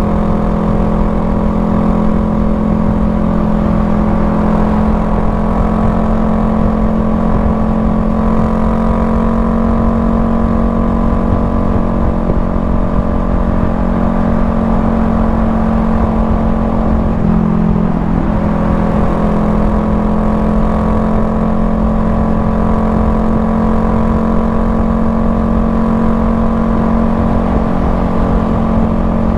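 Honda Rebel 500's parallel-twin engine running at a steady cruise under a low rush of road and wind noise. About 17 seconds in the engine note briefly breaks and shifts, then settles back to a steady note.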